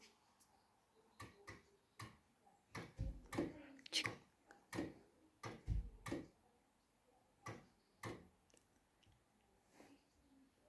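A string of irregular clicks and knocks, denser in the middle, with two heavier low thumps, then a few scattered clicks.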